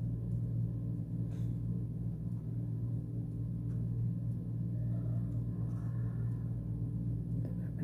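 A steady low hum, with a few faint soft clicks now and then.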